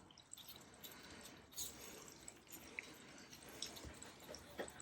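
Near silence, with a few faint small taps and rustles of paper being handled and pressed into place.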